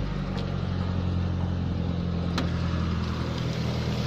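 Proton Waja MMC's four-cylinder petrol engine idling steadily just after being started, with one sharp click about two and a half seconds in.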